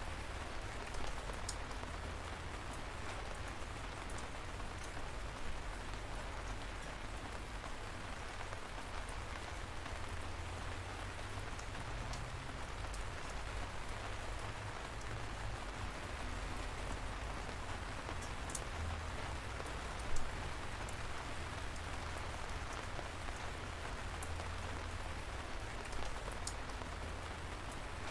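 Light rain falling steadily, an even hiss with scattered sharp ticks of single drops; one louder drip about two-thirds of the way through.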